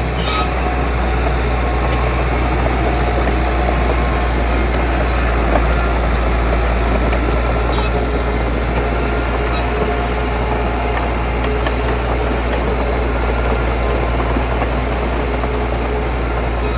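Heavy diesel earthmoving engine running steadily with a deep, even drone, with a few faint sharp clicks.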